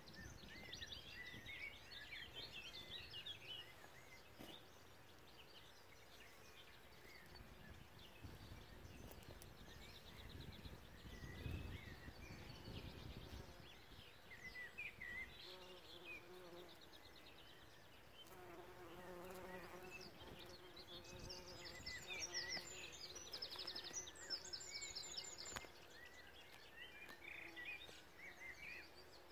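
Bees buzzing among flowering field beans, the buzz growing louder for several seconds about two-thirds of the way through as a bee works close by. Small birds chirp and sing faintly in the background.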